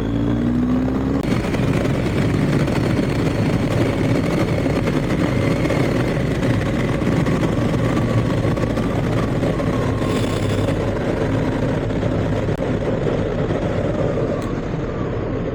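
BMW R1250GS's boxer-twin engine running at road speed, heard on the bike's own mic under a steady rush of wind and road noise.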